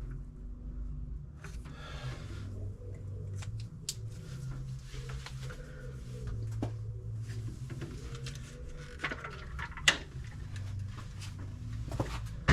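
Scattered light clicks, taps and scrapes of hand work at the distributor while the casing is marked for the number 1 lead, with one sharper click about ten seconds in, over a steady low hum.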